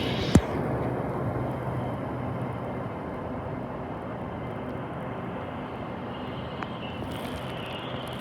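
Steady rumble of a train at the station, fading over the first few seconds, with one sharp click just after the start.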